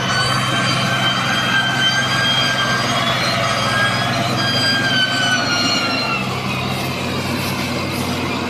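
Tractor engine running steadily with a high-pitched wavering whine over it, the whine drifting down in pitch in the second half.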